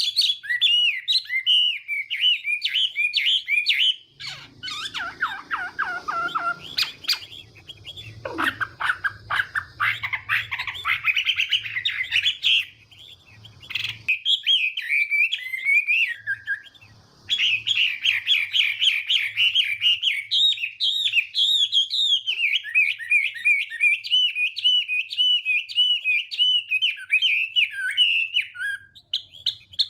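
Chinese hwamei singing a long, fast, varied song of repeated whistled notes, broken by two short pauses near the middle.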